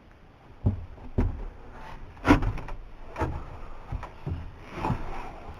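A string of irregular knocks and thumps, about seven of them, starting about half a second in.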